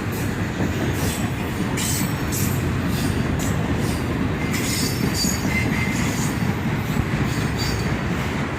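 Freight train of loaded autorack cars rolling past: a steady rumble of wheels on rail with recurring high-pitched wheel squeal.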